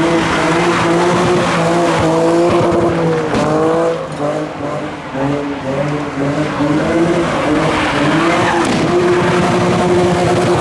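A car drifting: its engine is held at high revs, wavering up and down, while the tyres screech. The revs dip and climb back about three and a half seconds in.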